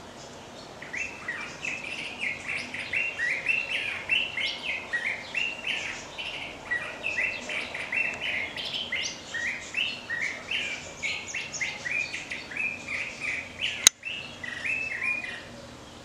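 A thrasher singing: a long, unbroken run of quick, varied chirping phrases that starts about a second in and stops shortly before the end. A single sharp click cuts through it near the end.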